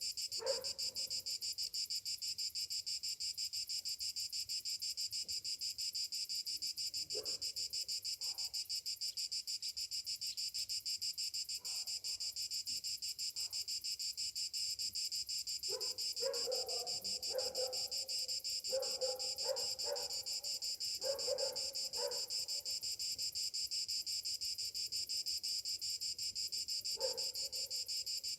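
Cicadas singing in a steady chorus, a high, finely pulsing buzz. Short lower sounds break in now and then, clustered about halfway through.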